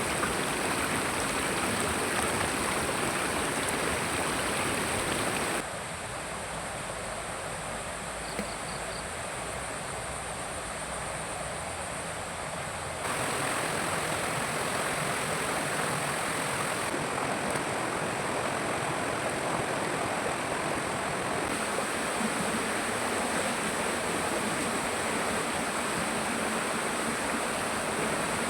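Steady rushing of a flowing forest stream. The level drops abruptly about a fifth of the way in and comes back up just under halfway through.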